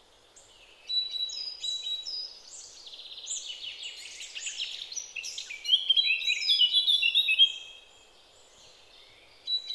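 Small songbirds chirping and twittering, many quick falling chirps overlapping one another, loudest from about five and a half to seven and a half seconds, then dying away, with a few chirps again near the end.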